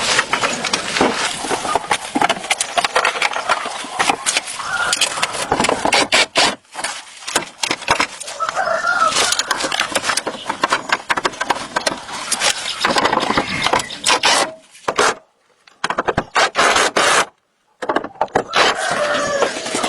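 Hand repair work, with scraping and rubbing broken by many sharp clicks and knocks. Short squealing tones come and go, and the sound cuts out abruptly twice near the end.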